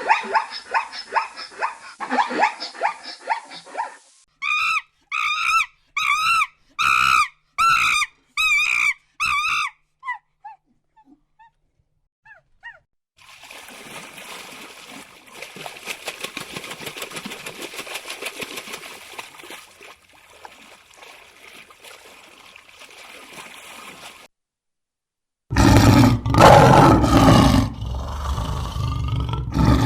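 A run of animal sounds: a dog barking in quick, repeated barks at the start, then about seven short wavering calls, a stretch of hiss-like noise, and a lion roaring loudly near the end.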